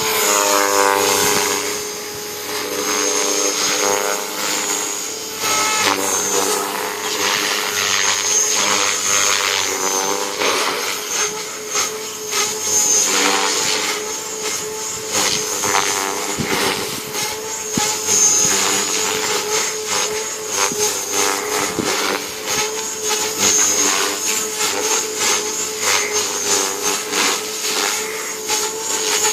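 JR Forza 450 electric RC helicopter in flight: high motor whine and rotor blade noise, swelling and easing in loudness as it flies light 3D manoeuvres.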